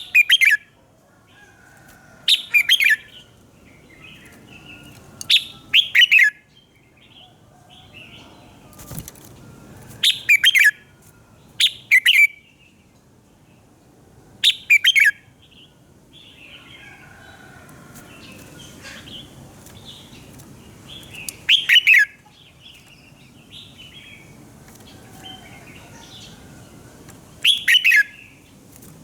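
Red-whiskered bulbul singing: short, loud phrases of quick falling whistled notes, repeated every two to three seconds, with quieter chattering in between.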